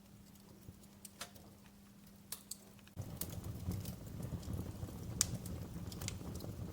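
Wood fire crackling with sparse sharp pops over a faint steady hum. About three seconds in the sound steps up suddenly to a louder low rumble with denser crackles.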